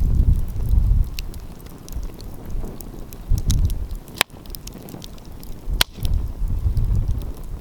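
Wood fire crackling with scattered small ticks and two sharp, louder pops about four and six seconds in. Gusts of wind buffet the microphone with a low rumble that rises and falls.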